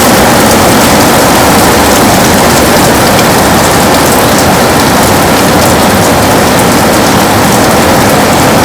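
Heavy rain pouring steadily on a window glass, an even, dense hiss without let-up.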